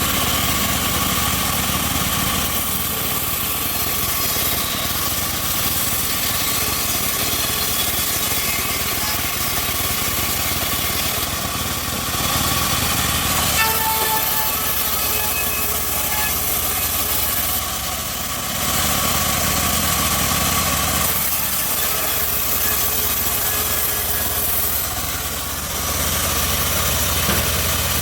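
Homemade bandsaw mill running steadily with a continuous engine-like drone, dipping briefly a couple of times.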